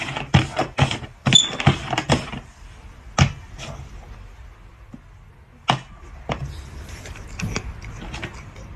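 A quick run of knocks and clatters over the first two seconds or so, then a few scattered single knocks.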